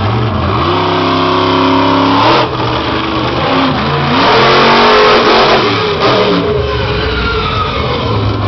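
Monster truck's supercharged V8 engine revving hard: its pitch climbs about half a second in, holds high, then drops and surges up and down repeatedly as the throttle is worked.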